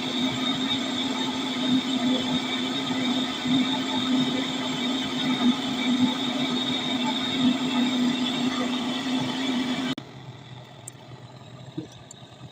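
A motor-driven machine running steadily with a constant hum and whine, then shutting off abruptly about ten seconds in.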